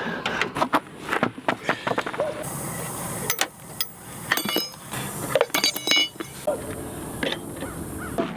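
Metal tools clinking and knocking while a pickup's flat tire is changed. There are scattered knocks throughout and two runs of sharp, ringing metallic clinks in the middle.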